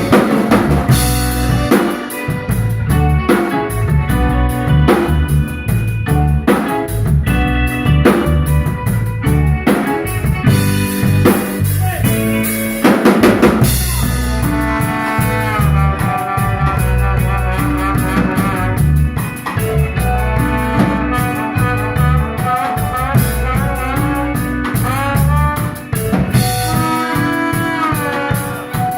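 Live instrumental band playing, with the drum kit to the fore: bass drum, snare and rimshots keeping a steady beat under a bass line. From about halfway through, a melodic line with bending notes comes in over the rhythm.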